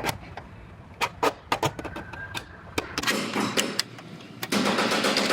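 A steel scribe scratching a cut line into sheet metal along the edge of an overlapping replacement quarter-panel section: scattered light clicks and taps, then two longer scraping strokes in the second half.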